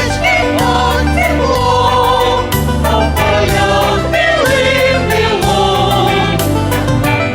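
A choir singing with instrumental accompaniment: voices holding long, wavering notes over a bass line and a regular beat.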